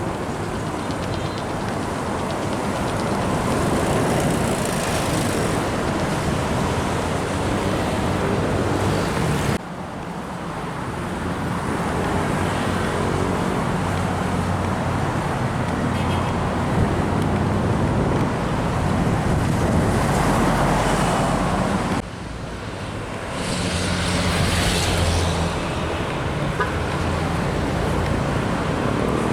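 Heavy trucks and other road traffic passing close by, with low diesel engine hum and tyre noise swelling as each vehicle goes past. The sound drops off suddenly twice, once about a third of the way in and again about three quarters of the way in.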